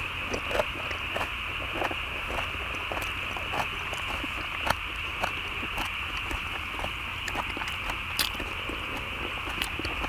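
Two people chewing food with mouths closed, with scattered sharp clicks and taps of wooden chopsticks against the metal cauldron-lid pan, over a steady high-pitched background drone.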